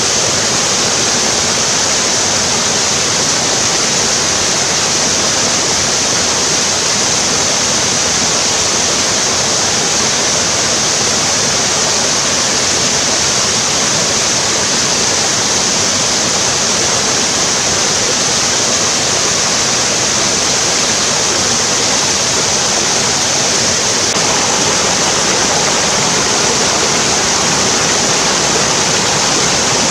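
Mountain stream water rushing steadily, a loud, even rush with a strong hiss and no breaks.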